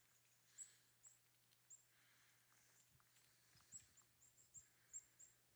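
Small birds at a feeder giving short, high call notes, a dozen or so scattered through, with faint clicks; all quiet.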